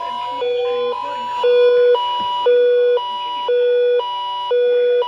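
Electronic alert tone for a flood warning, switching back and forth between a low and a high pitch about twice a second, with fainter sliding tones underneath.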